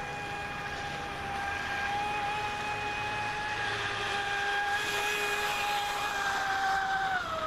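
An RC boat's 1400 kV brushless inrunner motor driving a Kyosho Dolphin outboard through a flex shaft, running on the water at speed with a steady high whine. Near the end the pitch dips briefly as the throttle comes off.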